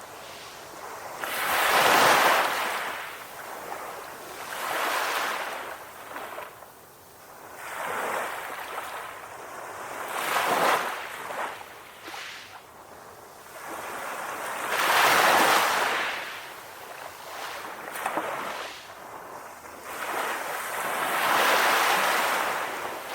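Calm ocean waves breaking and washing ashore, each surge of surf swelling and fading every few seconds.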